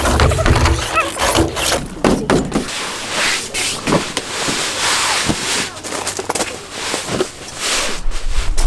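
Rustling, knocks and clicks from a camping field cot's frame and fabric being handled and fitted together, with a few brief squeaks near the start.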